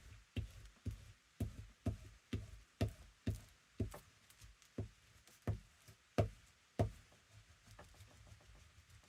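Glue stick being rubbed in strokes over paper on a desk, each stroke knocking against the table, roughly two knocks a second, dying away about seven seconds in.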